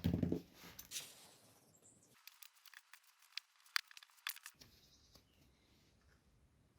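Handling noise from small lawn mower engine parts: a short noisy burst at the start, then a run of scattered light clicks and taps.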